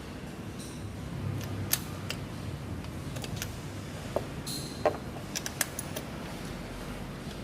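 Scattered light metallic clicks and taps of hand tools and engine parts being handled, over a low steady hum.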